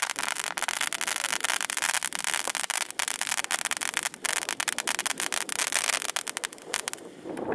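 A long string of firecrackers going off: a dense, rapid crackle of small pops that thins out near the end.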